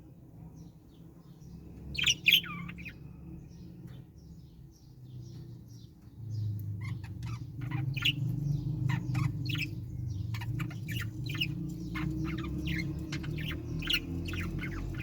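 Caged Australian parrots calling: one loud squawk about two seconds in, then from about six seconds on a dense chatter of many short chirps from several birds, over a steady low hum.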